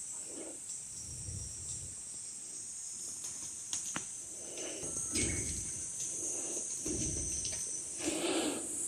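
Insects keeping up a steady high-pitched drone, with a few faint clicks and soft rustling handling sounds in the second half.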